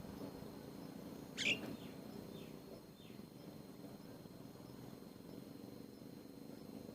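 A bird gives a sharp, high call that falls steeply in pitch about a second and a half in, followed by two fainter, shorter falling calls. Low, steady background noise runs underneath.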